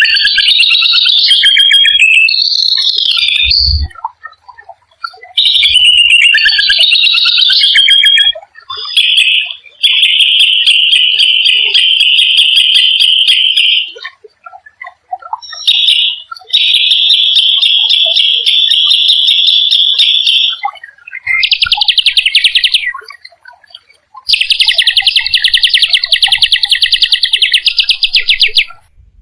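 A small songbird singing loud, rapid rolling trills in repeated phrases of a few seconds each, with short pauses between. Some phrases waver in pitch, and others are held steady and harsh, like a buzz.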